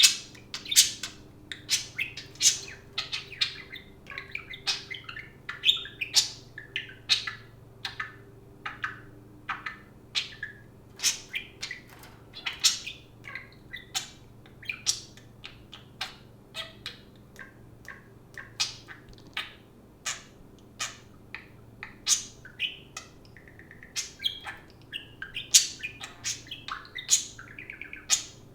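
Pet budgerigar chirping and chattering: short, sharp, high calls in an irregular string, roughly two a second.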